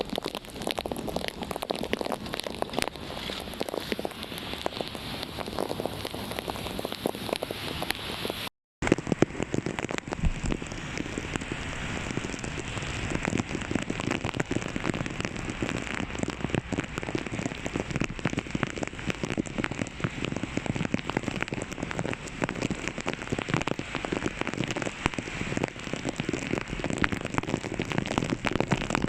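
Heavy rain falling and pattering densely on surfaces, a steady hiss full of fine drop ticks. It breaks off in a short gap of silence about a third of the way in, then carries on with the highest sounds dulled.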